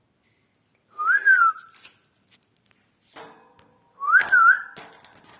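Pet parrot whistling a tune in two short phrases about three seconds apart, each rising and then wavering up and down.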